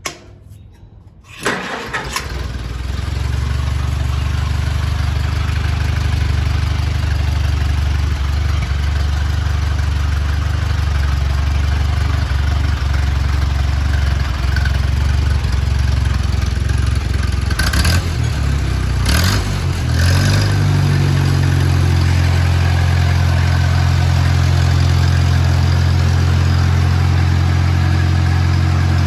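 1949 Farmall Cub tractor's four-cylinder flathead engine starting about a second and a half in, then running steadily. Near twenty seconds in there are a couple of sharp clicks, and the engine speed steps up to a slightly higher, even pace.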